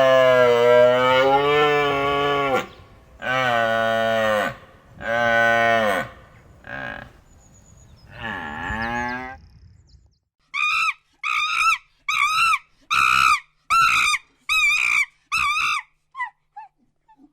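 Animal calls: several long, low, moo-like calls over the first ten seconds, then a quick run of about eight short, higher yelps, roughly two a second, that fade into fainter ones near the end.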